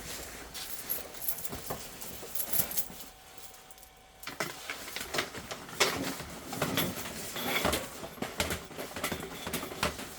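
Irregular clicking, rattling and scraping of equipment being handled, in uneven clusters with a brief lull about four seconds in.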